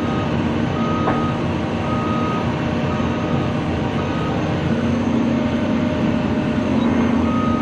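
CAT 340 excavator running steadily under its own power with a steady low hum. Its travel alarm beeps about once a second for the first two seconds, then again near the end.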